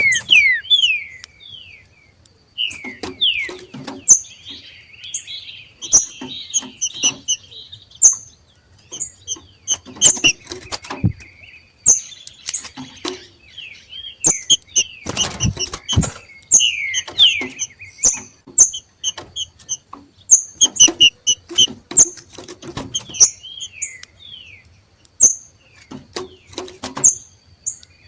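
Two green-winged saltators (trinca-ferro) giving their 'macheado' call, a call tied to breeding condition: rapid short, sharp high notes and quick down-slurred whistles, mixed with many abrupt clicks.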